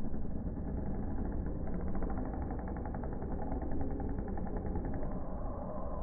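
Motocross dirt bike engines running, with a fast even pulsing from about two seconds in.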